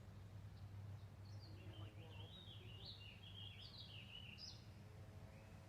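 A songbird singing one faint, quick warbling phrase of about three seconds, over a low steady hum.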